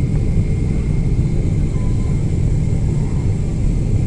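Steady low rumble of cabin noise inside a Boeing 777-300ER airliner, with a faint high hum above it.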